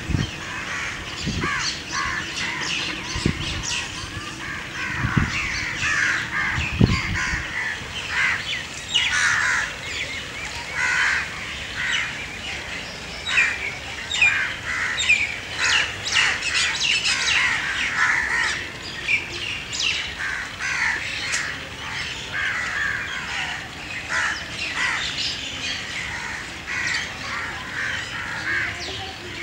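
Many birds calling and chirping, short busy calls throughout, with a few dull low thumps in the first seven seconds.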